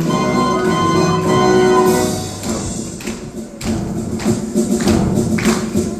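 A drum playing a march over an orchestral accompaniment. For about the first two seconds only the accompaniment's held notes sound, then drum strokes come in and keep a marching rhythm.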